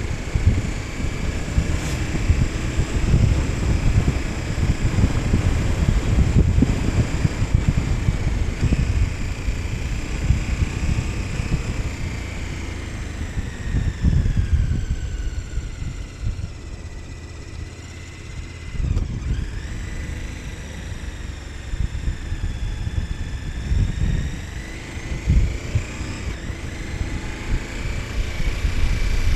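KTM 1290 Super Adventure S's V-twin engine running on the move. Its pitch falls as the revs drop about halfway through, then climbs again as it accelerates, with wind buffeting the microphone throughout.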